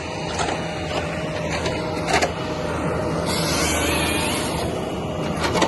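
An engine running steadily with a low hum, with several sharp knocks or clunks and a brief hiss about halfway through.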